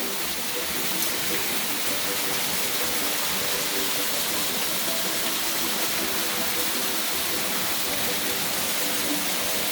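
Waterfall pouring into a swimming hole: a steady, even rush of falling water.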